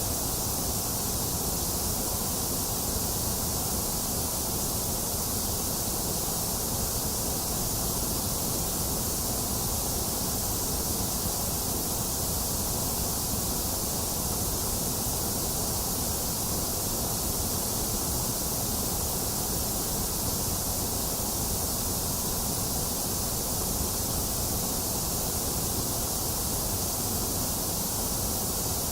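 Continuous white noise for sleep: a steady, unchanging hiss, strongest in the high treble, with a low rumble beneath and a hollow dip in the upper midrange.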